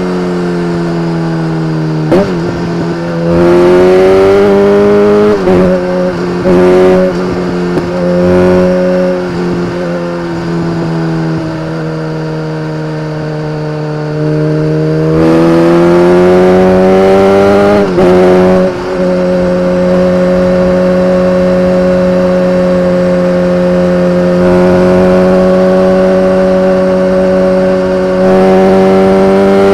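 BMW K1300R's inline-four engine through an Akrapovič exhaust, revving up in several pulls, its pitch climbing on each and dropping sharply between them. For the last ten seconds it holds a steady note.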